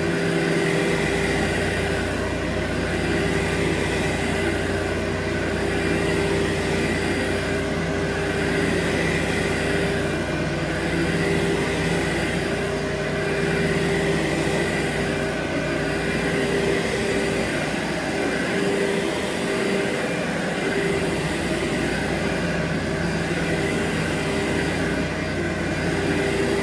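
Carpet-cleaning machine's electric motor running steadily, a constant whine over a broad hiss.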